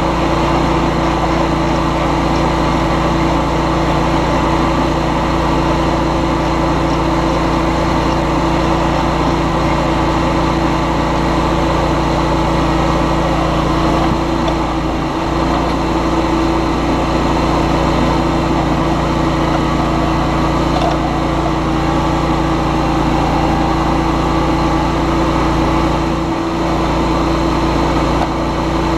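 John Deere X738 garden tractor's three-cylinder diesel engine running at a steady speed, with two dull low knocks, one about halfway through and one near the end.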